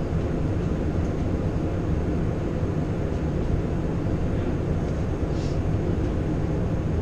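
Steady low rumble of simulated engine and airflow noise in an Airbus A350 full flight simulator cockpit on final approach.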